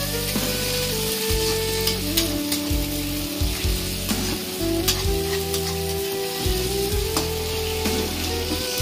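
Onions and ginger-garlic-chilli paste sizzling in hot oil in a metal kadhai, stirred with a metal spatula that scrapes and clicks against the pan now and then.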